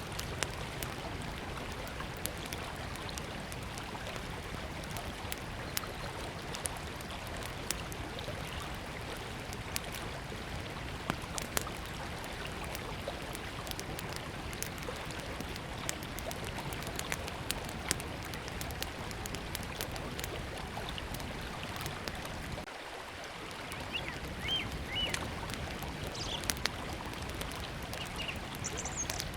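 River water flowing steadily, with a small wood fire crackling in sharp, scattered pops throughout. A few short bird chirps come near the end.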